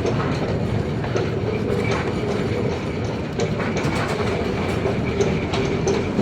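Funicular car running on its rails: a steady rumble with a humming tone and scattered wheel clicks.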